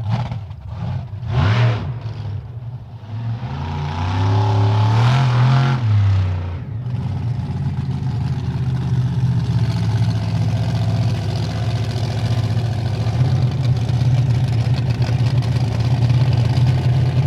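Bigfoot 18 monster truck's engine running under throttle, revving up and down several times, then held at steady high revs for about ten seconds.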